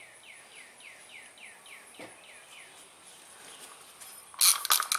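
A bird repeats a short down-slurred whistled note about three times a second for the first three seconds. Near the end comes a loud clatter of metal hand tools, with a brief ringing.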